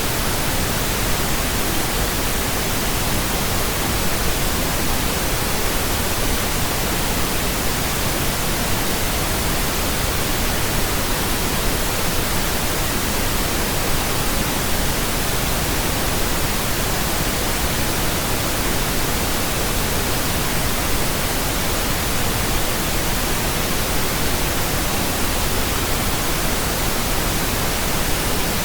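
Steady pink noise: an even, unchanging hiss across the whole range, with no other sounds.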